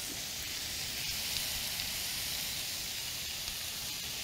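Mixed vegetables and shredded cabbage sizzling steadily in hot oil in a frying pan over medium-high heat.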